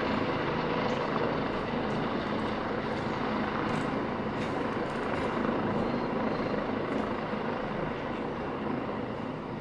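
Helicopter's turbine engine and rotor running steadily, easing slightly in loudness near the end.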